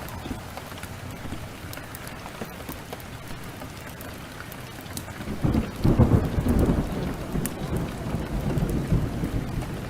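Steady heavy rain with scattered sharp crackles, then a roll of thunder that breaks in about halfway through, loudest at its start, and rumbles on for several seconds while slowly fading.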